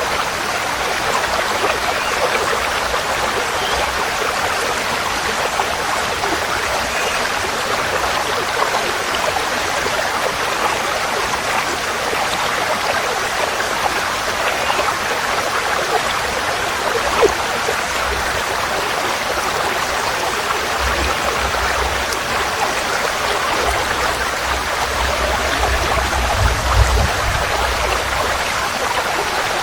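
Forest stream flowing, a steady rush of water. A low rumble joins in about two-thirds of the way through.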